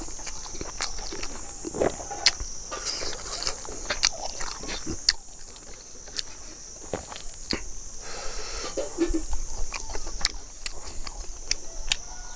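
Close-up eating sounds: a man chewing and smacking his lips with many irregular short clicks, while his fingers scoop and squeeze rice on the plate.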